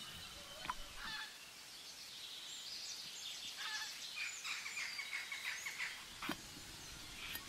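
Birds calling, with many rapid, overlapping high chirps that are busiest from about two and a half to six seconds in. A couple of faint knocks come between them.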